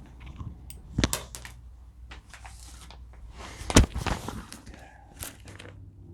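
Small metal assembly hardware (spacers and bolts) knocking and clinking as it is handled on a table saw, with two clusters of sharp knocks, about a second in and louder near four seconds in.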